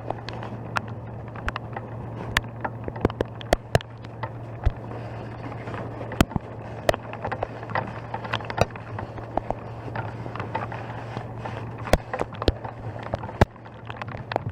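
A steady low engine hum runs under many irregular sharp cracks and clicks, several a second.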